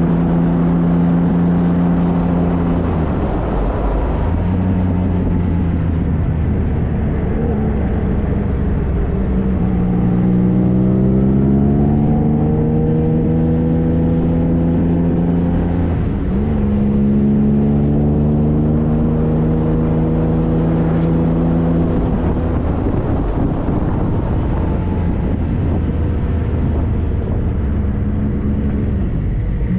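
Triumph Trophy SE's inline three-cylinder engine running under way. The engine pitch climbs under acceleration, drops sharply about sixteen seconds in as it shifts up, then climbs again, over steady wind and road noise.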